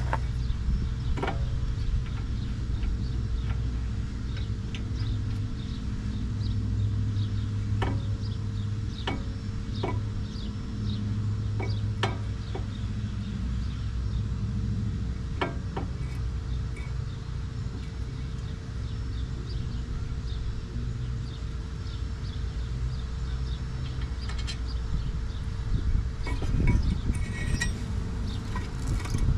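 Scattered sharp metallic clicks and taps of hand work on disc brake parts, a few seconds apart, with a cluster near the end, over a steady low hum.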